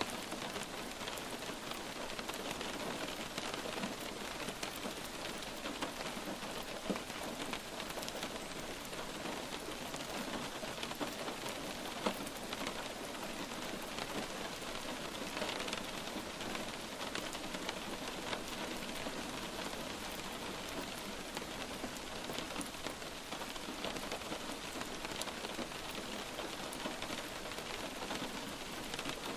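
Light rain falling steadily: an even hiss of rain with many single drops tapping distinctly through it.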